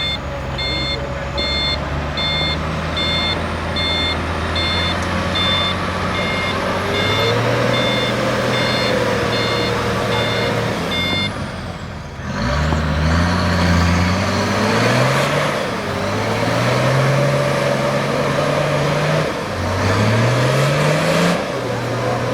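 Off-road 4x4 engine working hard and revving up repeatedly as it climbs, each rev rising then dropping back. An electronic beeper sounds at a steady rate of about two beeps a second through the first half and stops about eleven seconds in.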